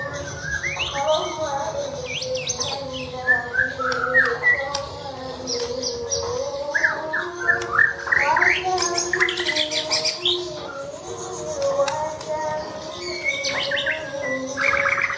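Caged songbird singing a fast, varied string of chirps and whistled notes that rise and fall in pitch, busiest around the middle and again near the end.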